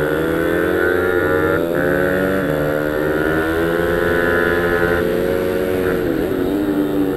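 Pit bike minimotard engine revving under throttle, its pitch climbing and falling, with brief dips about a second and a half in and again near six seconds.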